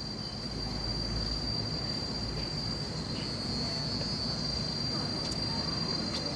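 Rainforest insects droning, one steady high-pitched tone held throughout over a low background hiss.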